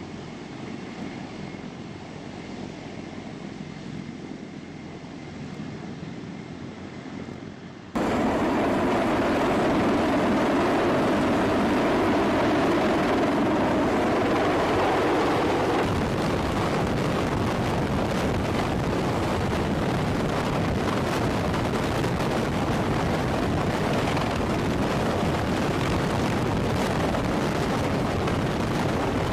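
Steady aircraft noise with no speech. It is quieter and wind-buffeted at first, then jumps abruptly louder about eight seconds in and drops slightly about sixteen seconds in, as the footage cuts between shots.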